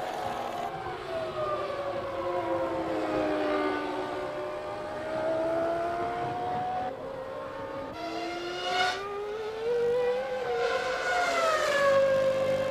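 Formula One car engines at high revs, the pitch sliding slowly down and back up as the cars slow and pick up speed. There is a quick rise about eight seconds in, and another rise and fall near the end.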